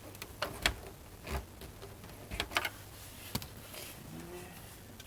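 Scattered light clicks and taps of screws and a screwdriver on a boombox's plastic case during reassembly, with a short faint hum about four seconds in.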